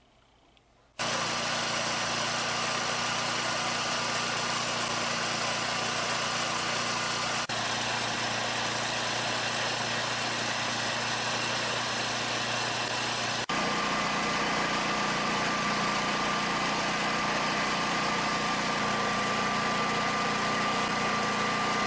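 WEN 11000 dual-fuel portable generator's engine running steadily under load, a continuous hum and hiss with a steady whine. It starts abruptly about a second in and breaks sharply twice where the footage changes.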